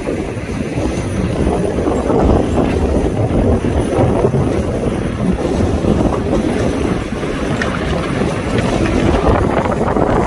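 Heavy earthmoving machinery running: a steady, loud, rough engine noise with no clear pitch.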